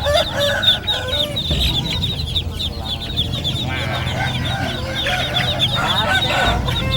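Many caged birds and chicks chirping and peeping together in a dense, continuous chatter, with chicken clucking among them.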